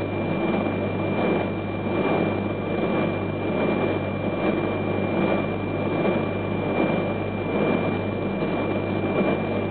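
Steady low hum and noise of a stationary Shinkansen train standing at a station platform, with a constant thin high-pitched tone over it. There are no distinct events.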